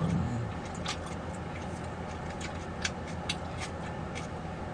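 Steady low background hum with about half a dozen faint, short clicks or taps scattered irregularly through it, and a brief low sound right at the start.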